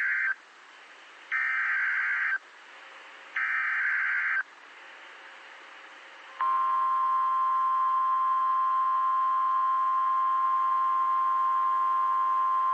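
NOAA Weather Radio alert signals: the end of one SAME digital header burst and two more, each about a second of warbling data tones with a second's gap between, then a steady, loud 1050 Hz warning alarm tone from about six seconds in. The tone marks the start of a severe thunderstorm warning broadcast.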